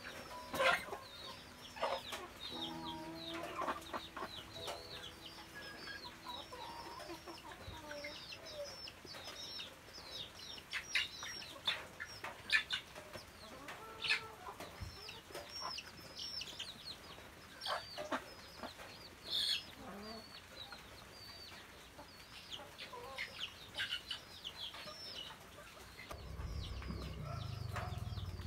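Bird chirping in the background: a steady stream of short, high, falling chirps.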